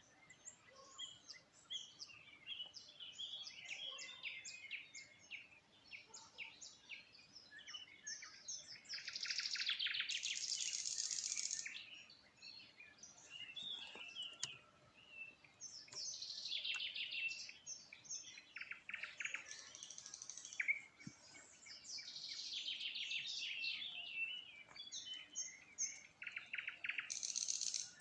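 Songbirds singing: scattered short chirps, then four long song phrases of fast trills and buzzy notes that come back every five or six seconds.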